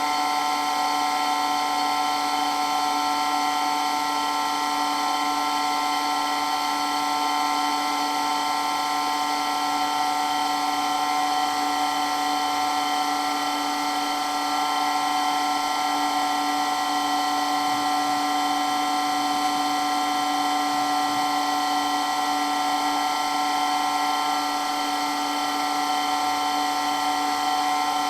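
Electric water pump running steadily, with a loud, unchanging high-pitched motor whine made of several steady tones over a hiss.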